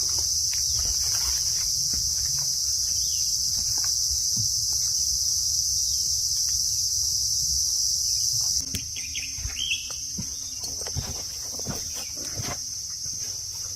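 Steady, high-pitched chorus of insects, a continuous shrill trill that drops in level about two-thirds of the way through. Scattered soft knocks and a brief bird chirp come about ten seconds in.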